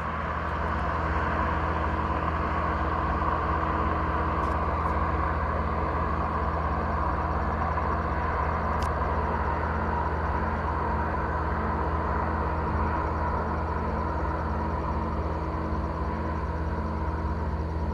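Steady low industrial drone with a broad rushing hiss and a faint regular pulse about once a second. It comes from an aluminium smelter plant, and the owner takes it for a giant industrial engine venting up into the air.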